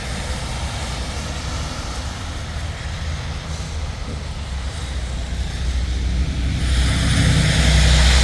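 Road traffic: a steady low rumble of passing vehicles, with a vehicle approaching about six and a half seconds in, its tyre hiss swelling and loudest near the end.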